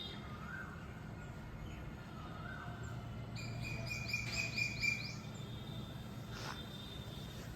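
Songbirds calling outdoors: a few short rising whistles, then a quick run of repeated high chirping notes about three seconds in, over a steady low background rumble.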